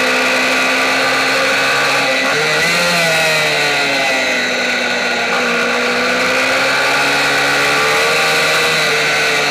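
A Kayo MiniGP race bike's engine heard onboard, running at high revs. The revs drop sharply about two seconds in and pick up again, then sag gradually through the middle as the bike leans into a corner and climb again near the end.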